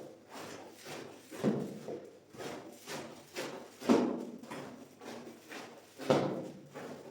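Repeated wet strokes of a cleaning tool worked across a soaked shaggy rug during washing, about one or two a second, each starting sharply and fading.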